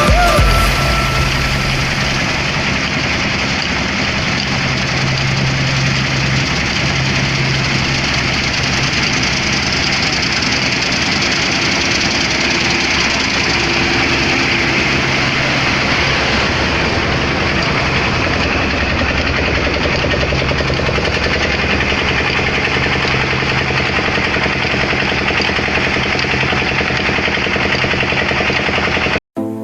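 Heavy engine of harvesting machinery running steadily, with a dense mechanical hiss and rattle over it; it cuts off suddenly near the end.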